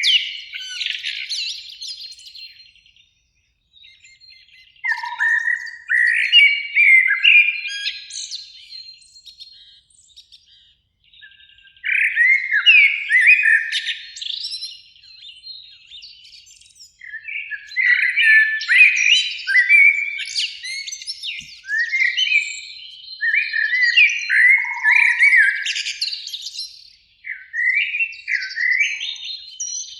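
Eurasian blackbird singing: phrases of quick, warbling whistles a few seconds long, with short pauses between them.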